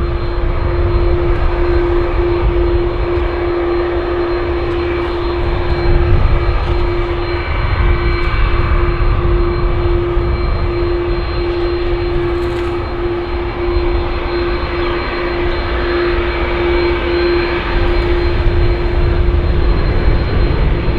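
Airplane engines running steadily: a constant low rumble with a humming tone that holds its pitch, fading out near the end.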